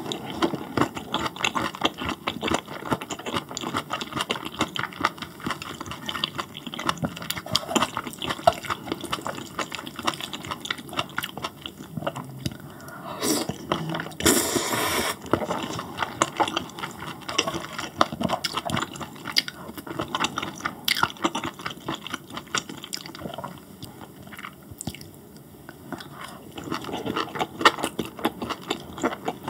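Close-miked wet chewing of grilled beef intestines and spicy fire noodles, with many small clicks and smacks. About halfway through comes a longer, louder slurp of noodles.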